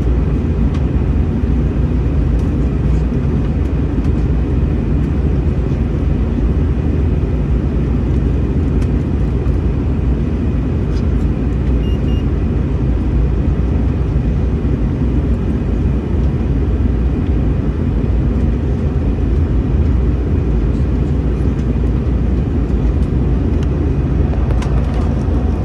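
Steady low rumble of an Airbus A321-211's engines and airflow, heard inside the passenger cabin.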